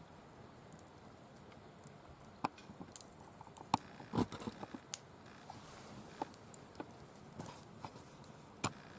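Firewood burning in a mesh-walled fire pit, crackling with irregular sharp pops, the loudest about four seconds in.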